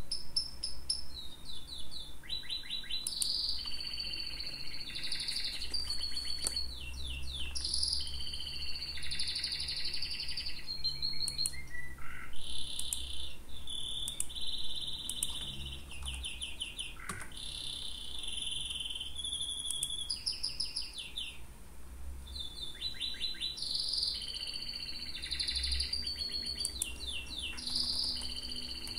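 Small birds chirping and singing in rapid high-pitched trills and twitters, nearly continuous, over a low steady hum.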